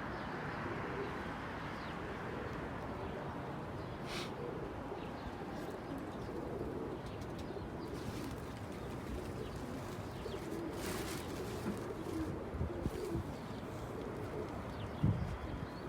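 Domestic pigeons cooing at the loft, low wavering coos over a steady background noise, with a couple of brief swishes.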